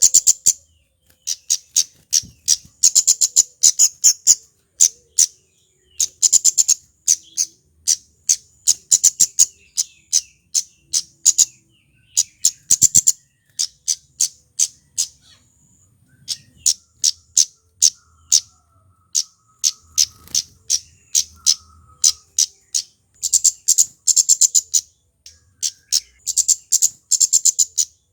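Male kemade flowerpecker calling: runs of very short, sharp, high-pitched chips, delivered in rapid clusters separated by brief pauses.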